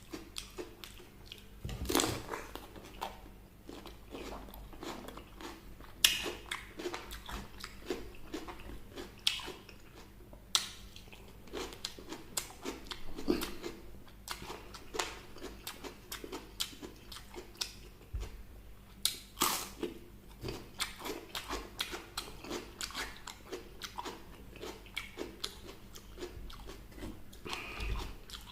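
A person biting and chewing fried chicken close to the microphone, with crisp crunches and steady chewing. A few sharper, louder bites stand out, the loudest about six seconds in.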